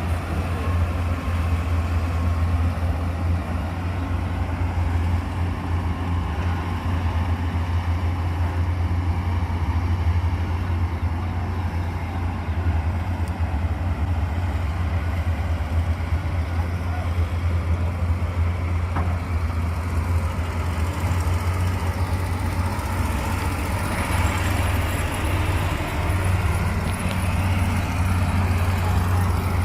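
A heavy vehicle's engine running steadily with a deep, constant drone.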